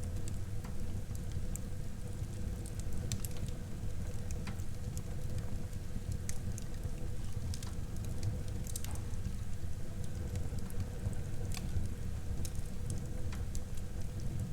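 Wood fire burning in a fireplace: a steady low rumble from the flames, with scattered sharp crackles and pops every second or so.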